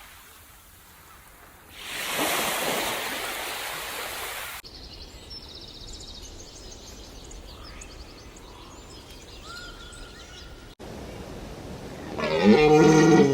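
A rush of noise like surf for a couple of seconds, then faint chirping bird calls, then near the end a loud animal call whose pitch bends and falls.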